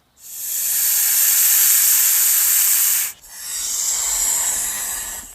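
Snake hissing: one long hiss of about three seconds, then a second, slightly quieter hiss after a brief break.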